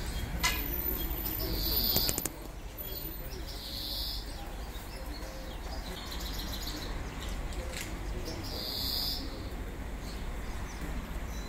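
A bird calling outdoors: a short, high call repeated about every two and a half seconds over a steady low background rumble, with a sharp click about half a second in.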